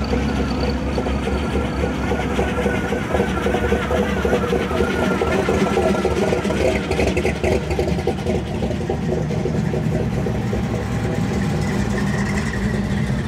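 Classic Chevrolet cars with big engines, among them a black 1957 Chevy with a hood-mounted supercharger and a 1955 Bel Air, driving slowly past one after another, their engines running at low revs.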